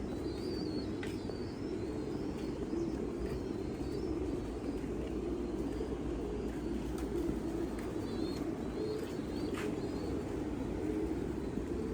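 Many pigeons cooing together in a steady, low, wavering chorus. Thin high chirps come over it at the start and again near the end, with a few brief clicks.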